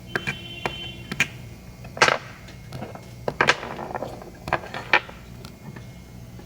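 Sharp clicks, knocks and short scraping rattles of small hard parts and tools being handled, with three louder scrapes about two, three and a half and five seconds in. A low steady hum runs underneath.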